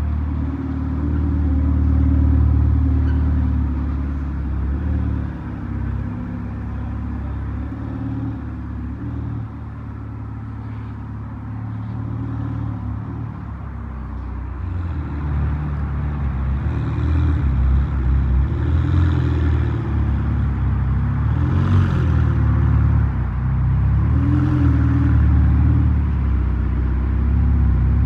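Ferrari 488 Pista's twin-turbo V8 running at low revs with a deep rumble as the car creeps forward at walking pace. It gets louder in the second half, the revs rising and falling a little.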